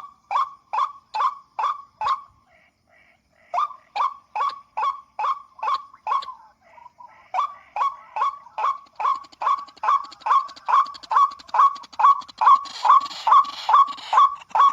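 White-breasted waterhen (ruak-ruak) lure call played through a speaker: a fast, even train of harsh 'kruak' notes, about three a second, each dropping in pitch, with short breaks about two and six seconds in.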